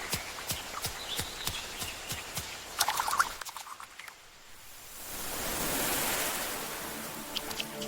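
Light regular ticking, about three clicks a second, with a brief high bird chirp, then a swelling rush of wind that builds to a peak and eases off, as a storm gathers.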